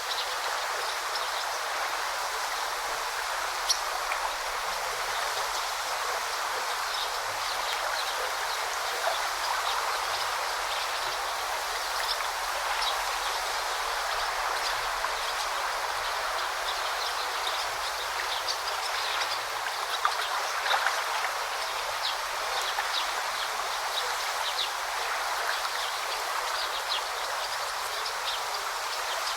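Forest stream babbling steadily, with small birds chirping now and then over the water.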